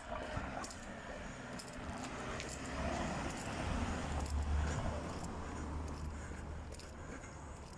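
A motor vehicle passing: a low rumble that swells to its loudest about halfway and then fades, with scattered small clicks.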